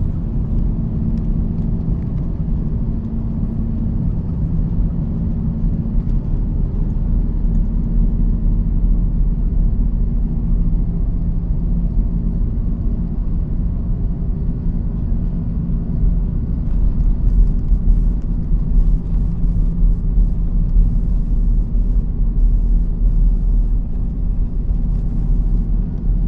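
Airbus A330-300 jet engines and airflow heard from inside the cabin: a loud, steady low rumble with a faint drone of engine tones. Light rattles and clicks come in during the second half.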